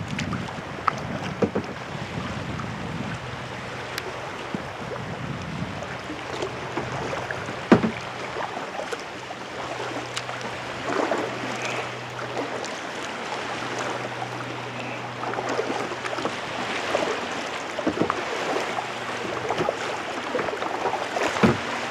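Kayak being paddled on the sea: paddle blades dipping and splashing, with water lapping against the hull and a sharp knock about eight seconds in. Wind buffets the head-mounted microphone.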